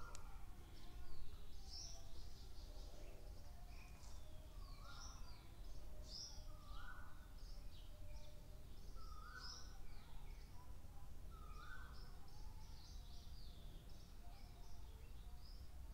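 Birds chirping steadily in the background, many short high chirps, with one lower call repeated about every two seconds. A faint steady low hum lies underneath.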